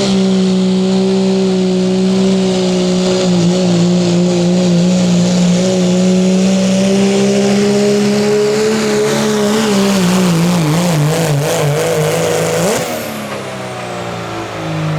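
A 2.6-class diesel pulling truck at full throttle under load, its engine holding a steady high note. The pitch wavers up and down for a few seconds, then about 13 s in the throttle comes off, the engine note drops sharply and a high whistle falls away: the end of the pull.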